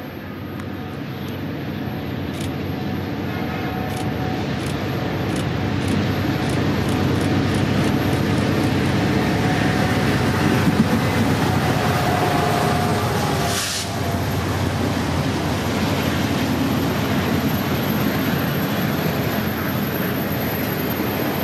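BNSF diesel freight train coming up and passing: a heavy locomotive rumble that swells over the first several seconds and then holds steady. A string of clicks comes as it nears, and a single sharp noise about fourteen seconds in.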